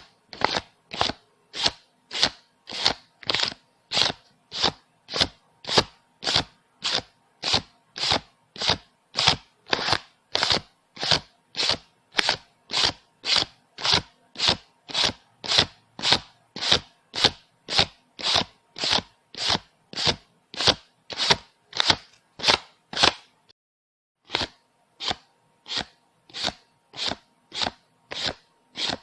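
Paper banknotes being counted by hand, each note flicked with a short crisp snap at about two a second. There is a pause of about a second a little past two-thirds of the way through.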